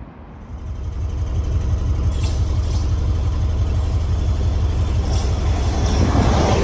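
A train approaching and running past, a heavy low rumble that builds over the first second or two and then holds steady, with a few faint clicks over it.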